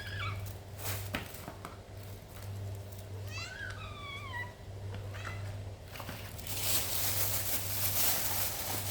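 Cats meowing: a short meow at the start, a longer falling meow around three to four seconds in and a brief one about five seconds in. From about six seconds a steady hiss-like noise comes in, over a low steady hum.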